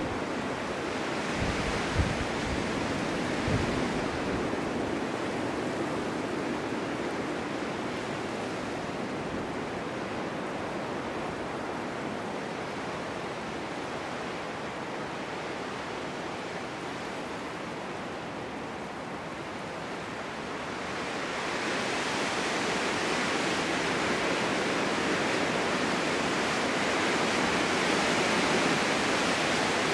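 Snowstorm wind blowing in gusts, easing through the middle and building again about two-thirds of the way in, with a couple of low thumps in the first few seconds.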